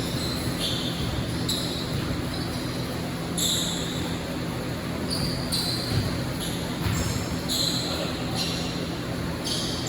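Basketball game in an indoor court: a ball bouncing with low thuds, among many short high-pitched squeaks scattered throughout.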